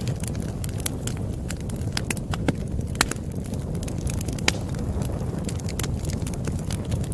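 Wood fire crackling: a steady low rumble of burning with irregular sharp pops and snaps, two louder pops about three and four and a half seconds in.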